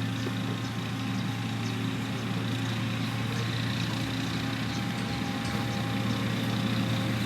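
Heavy diesel engine of a road-construction machine running steadily with a low drone, with faint scattered ticks over it.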